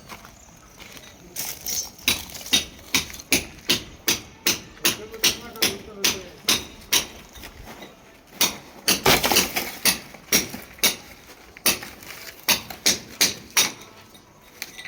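Repeated hammer blows, about two to three strikes a second, with a louder, noisier stretch of blows about nine seconds in.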